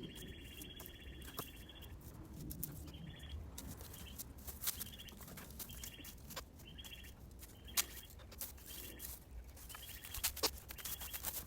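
Small birds chirping over and over, one longer call at the start and then short calls every second or so, mixed with scattered sharp clicks and light rustling.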